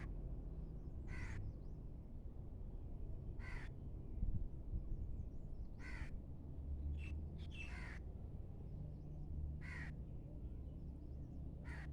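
A bird calling outdoors, about seven short calls spaced roughly two seconds apart, over a steady low rumble, with a brief thump about four seconds in.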